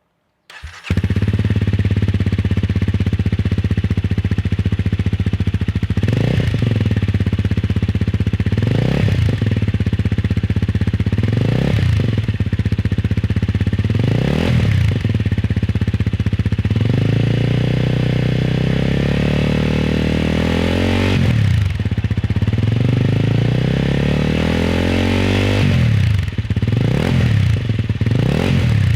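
Honda Rebel 250's single-cylinder engine through a BEAMS Power Header Double road-legal (JMCA-certified) exhaust, idling and then blipped repeatedly. There are single revs roughly every three seconds, a slower, longer rev in the middle, and several quick blips near the end.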